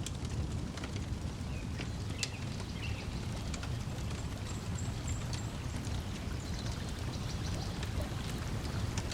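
Layered ambience of lake water lapping against the shore, with a wood fire crackling in scattered sharp pops and a few faint bird chirps.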